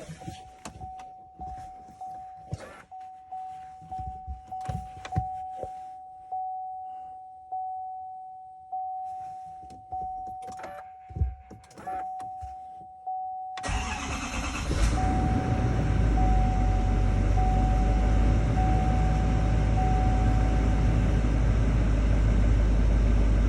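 A warning chime beeps about once a second with a few clicks, then about 14 seconds in the 2022 GMC's 6.6-litre Duramax turbo-diesel V8 cranks and fires on a cold start and settles into a steady idle; the chime keeps beeping over the idle until about 21 seconds in.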